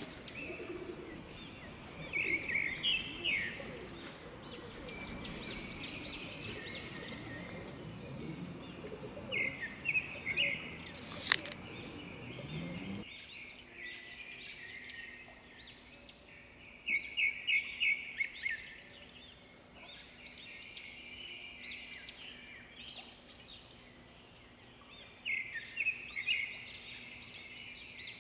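Rainforest birds calling: runs of short, rapid chirps repeating throughout, over a background hiss that drops away abruptly about halfway through, with one sharp click shortly before that.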